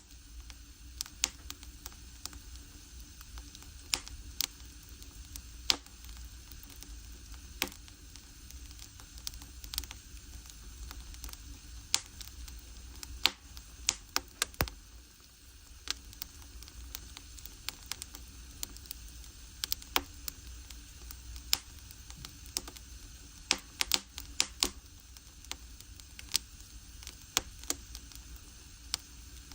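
Firewood burning in an agungi, a traditional Korean firebox, crackling with irregular sharp pops over a steady low rumble.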